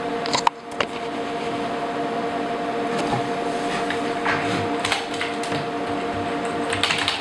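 IBM IntelliStation POWER 285 workstation's cooling fans running steadily, a constant hum of several steady tones over a wash of air noise, with the side panel and front door closed. A few sharp clicks about half a second in, and a quick run of keyboard key presses near the end.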